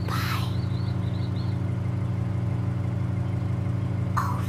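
Car engine idling with a steady low hum. Brief airy swishes come at the start and twice near the end.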